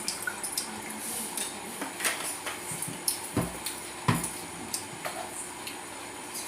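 Scattered clinks and knocks of dishes and utensils being handled during a meal, with two louder knocks a little past the middle.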